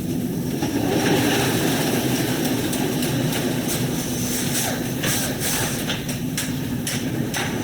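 A steady mechanical drone, like an engine or machinery running, with scattered short clicks and knocks.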